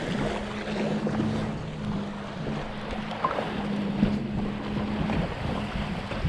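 Wind buffeting the microphone over sea surf, with a steady low hum running underneath.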